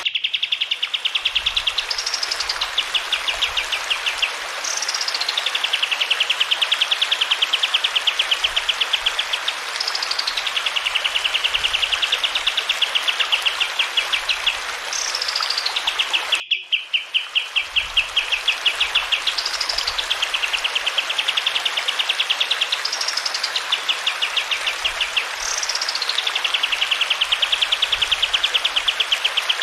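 Kapas tembak songbird singing the same phrase over and over: a quick note that sweeps up and falls back, then a long, very fast trill, every few seconds. Steady running water sounds underneath, and the sound cuts out briefly about halfway through.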